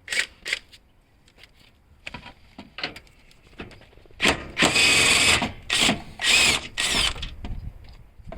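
A few metal clicks, then a power tool run in bursts on a bolt: one long burst about four seconds in, followed by three short ones.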